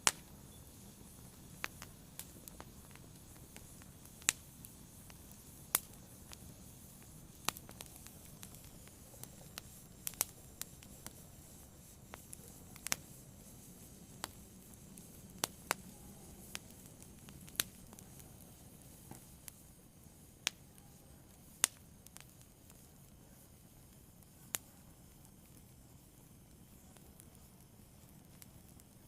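Fire burning, with sharp irregular crackles and pops about once every second or two over a low, steady rushing hiss.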